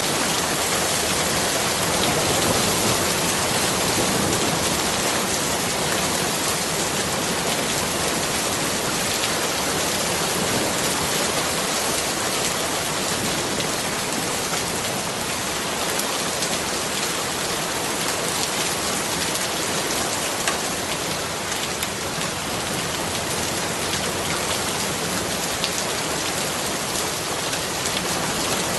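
Steady rain falling on surfaces, a dense even hiss with scattered individual drops.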